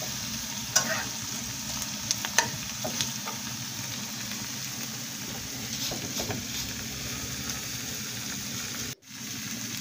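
Beef steaks and sliced onions sizzling as they fry in a skillet, the onions browning. A few light clicks and scrapes of the utensil stirring them come in the first three seconds, and the sound drops out for an instant near the end.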